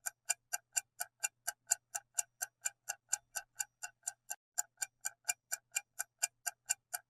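Ticking-clock countdown timer sound effect for a quiz answer pause: even, sharp ticks about four times a second.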